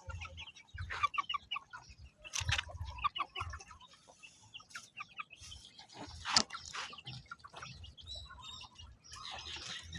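Birds calling: a string of short clucking and chirping notes, scattered and irregular, with a louder call about six seconds in.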